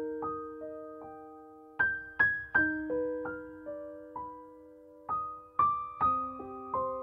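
Background piano music: a slow, gentle melody of single struck notes, each ringing on as it fades.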